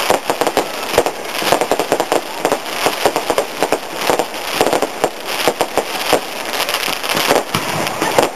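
Fireworks going off in a rapid, continuous barrage of cracks and pops, with crackling throughout.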